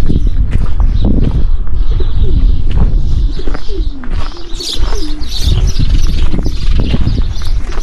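Doves cooing, a few short wavering low calls, over a steady low rumble.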